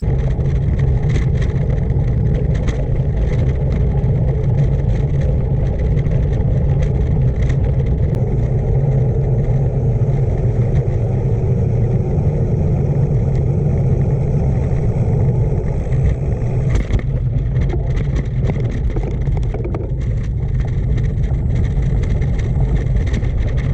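Steady wind rush buffeting the camera microphone while riding a bicycle at speed, with the rumble of the tyres rolling underneath.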